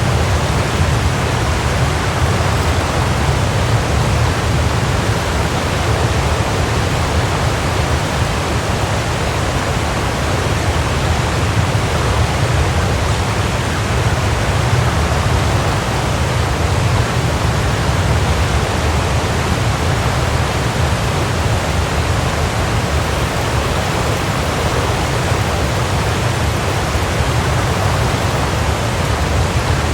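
Waterfall: steady, unbroken rush of falling water, with a deep low rumble under a broad hiss.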